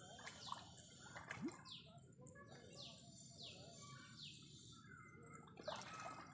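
Faint bird calls: a string of about six short, high chirps, each falling in pitch, repeated irregularly over quiet outdoor background.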